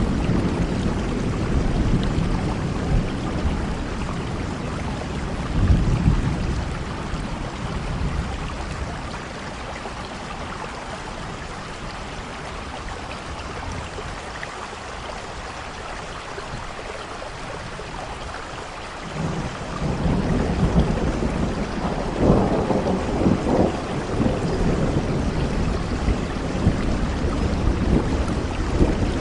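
Heavy rain falling steadily, with rolling thunder: rumbles at the start, swelling about six seconds in, fading to rain alone for a while, then a new roll of thunder building about two-thirds of the way through and rumbling on.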